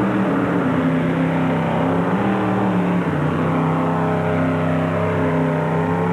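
Mini rod pulling tractor's engine running flat out under heavy load as it drags a weight-transfer sled down the track. Its pitch holds steady with slight dips as the load builds.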